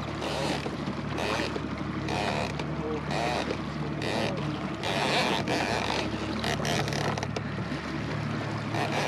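Outboard motor of a small jon boat running steadily at low speed in gear, a constant low hum, with irregular bursts of wind and water noise over it.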